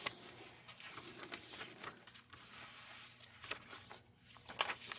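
Faint rustling and light clicks of paper as the pages of a handmade junk journal are turned and handled, with a few slightly sharper taps scattered through.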